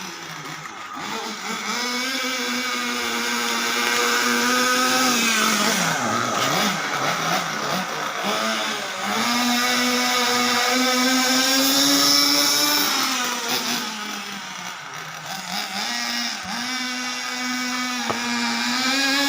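Small nitro glow engine of an RC car running at high revs, its pitch climbing, holding and then dropping three times as the car accelerates and slows on its laps.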